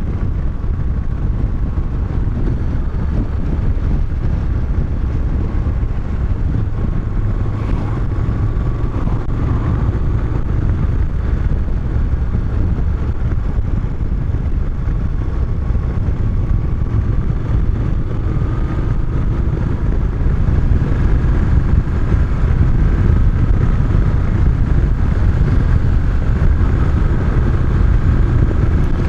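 Moto Guzzi motorcycle cruising at steady speed: a constant rush of wind on the helmet microphone over the running engine, growing a little louder about two-thirds of the way through.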